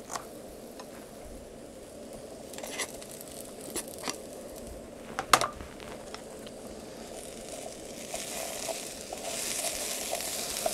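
A few sharp clicks and taps of a knife and utensils, the loudest about five seconds in. From about eight seconds, a hissing sizzle grows as diced onion and potatoes fry in a pan on a Trangia stove and are stirred with a wooden spatula.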